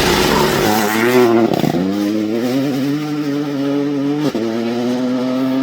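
Rally car engine at high revs under hard acceleration. The pitch dips and climbs again about one and a half seconds in, then breaks briefly just after four seconds, as at gear changes.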